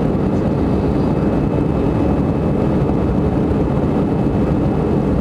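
Airliner's jet engines running steadily during takeoff, a low, even roar with a faint high whine over it.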